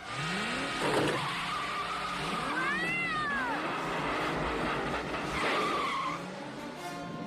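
Cartoon car chase sound effects: a car engine revving and tyres screeching, with a kitten's yowl about three seconds in.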